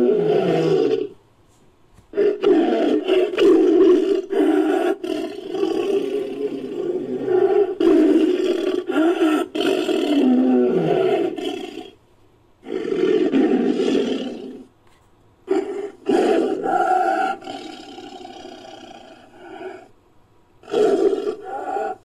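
Tiger roar sound effect, built from a real tiger recording: a series of deep, rough roars in about six bouts with short silences between, one of them running for about ten seconds, some ending in a falling pitch.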